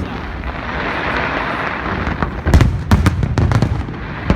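Aerial fireworks display: a dense crackling for the first couple of seconds, then several sharp booms of shells bursting in the second half.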